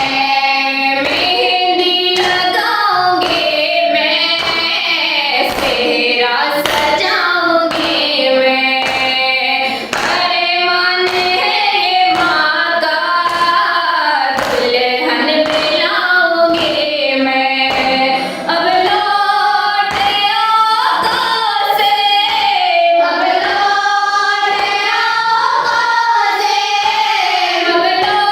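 A noha, a Shia lament, sung as a melodic chant with a chorus, over a steady beat of hands striking in matam, about one and a half beats a second.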